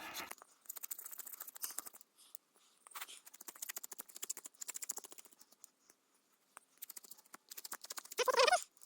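A blade of a multitool shaving thin curls off a stick of wood for kindling: quick, irregular scraping strokes in several runs with short pauses. A brief pitched vocal sound near the end.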